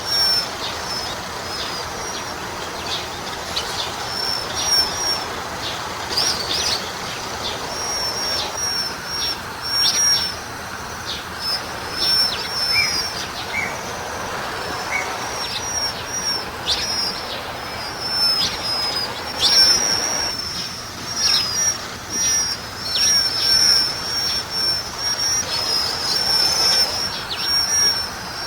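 Small birds calling: many short, high, downward-sliding chirps repeating over and over, several overlapping at once, over a steady outdoor background hiss.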